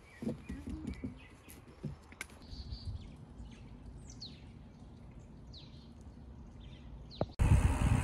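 Wild birds calling: several short chirps sliding downward in pitch over a quiet outdoor background. Music cuts in loudly near the end.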